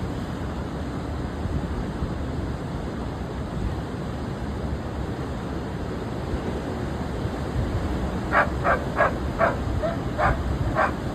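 Steady low rush of heavy surf and wind. Near the end a dog barks about six times in quick succession.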